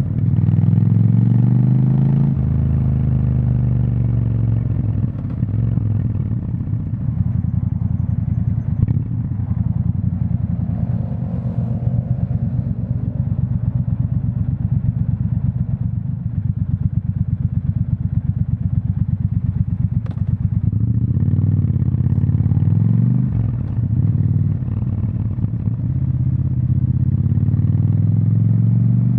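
Triumph Scrambler 1200 XE's 1200 cc parallel-twin engine running through its exhaust, mostly at a low, even, pulsing note. Its pitch rises and falls near the start, again about two-thirds of the way in, and climbs once more near the end.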